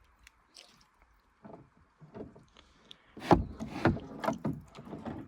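Knocks and clunks on a canoe hull as gear and bodies shift in the boat: a few faint taps at first, then two loud knocks a little past three seconds and near four seconds, followed by smaller bumps.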